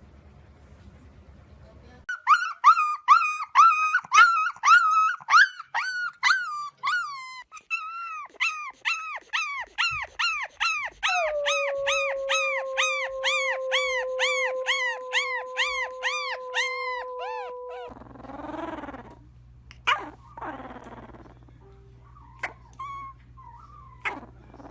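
Puppy howling: a quick run of high, rising-and-falling yips, about two to three a second, that turns into one long steady awoo held for several seconds, followed by a few short scattered sounds.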